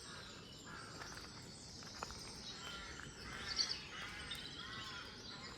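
Faint songs and calls of small birds, a few short chirping phrases over a low, steady outdoor background hiss.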